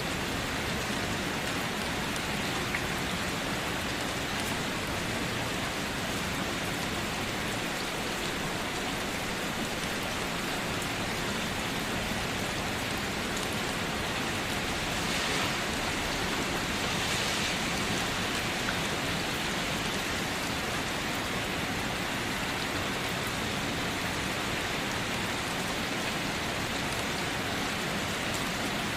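Steady, even rain, a dense hiss of drops falling on a surface, swelling slightly for a moment about halfway through.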